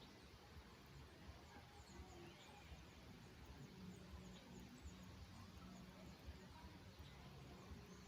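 Faint, scattered high chirps of small songbirds over quiet, steady background noise and a low hum.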